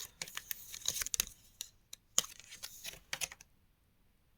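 Tarot cards being shuffled and handled: a rapid run of light card clicks and slaps that stops about three and a half seconds in.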